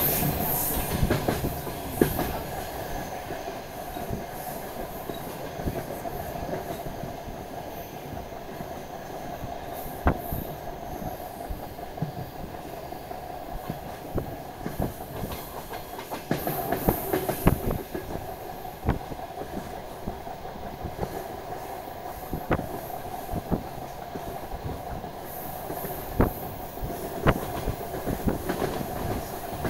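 DR1AMv diesel railcar running along the line, heard from on board: a steady rolling rumble and hum, with scattered sharp clacks of the wheels over rail joints that come thicker near the middle and the end.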